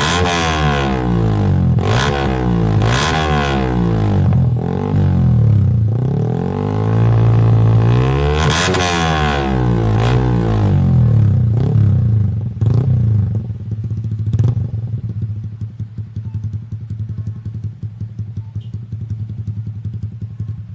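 Yamaha R15's single-cylinder engine through an aftermarket exhaust, revved in a series of throttle blips that rise and fall in pitch, with one longer rev in the middle. About twelve seconds in it drops to an uneven idle.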